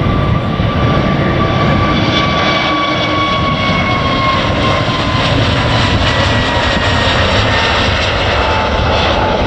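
Airbus A320neo jet engines at take-off thrust, a loud, steady rumble with a whine that slowly falls in pitch as the airliner passes and moves away.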